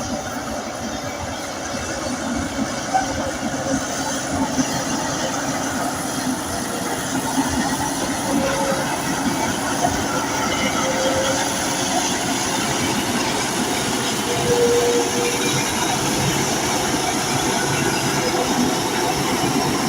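Crawler bulldozer at work: its diesel engine running under load, with the steel tracks clanking and giving short metallic squeaks now and then.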